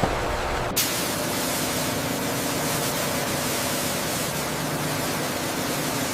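Steady hiss of noise. About a second in it switches abruptly from a low rumble to a brighter, higher hiss, which then holds steady.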